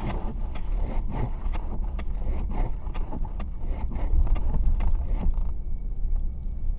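A car driving through a snowstorm: steady low road and engine rumble, with a quick irregular run of knocks and swishes that stops about five and a half seconds in.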